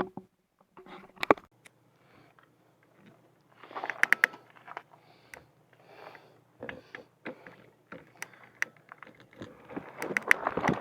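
Kayak paddling: short splashy strokes of the paddle in the water, about one every two-thirds of a second, with a few sharp knocks of the paddle early on and denser water noise near the end.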